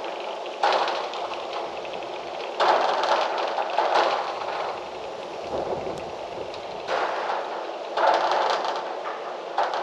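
Gusty wind rushing through trees, the rustling surging in about five gusts and easing between them.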